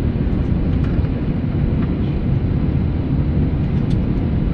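Steady low rumble inside the cabin of an Airbus A319 airliner: engine and airflow noise heard from a passenger seat, with a few faint ticks.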